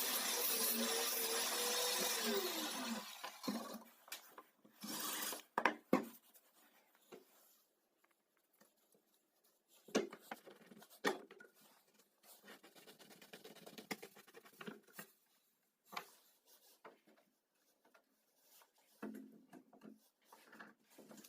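An electric power tool's motor runs, then winds down with a falling pitch about two to three seconds in. Scattered knocks, clicks and rubbing from wood and tools being handled follow.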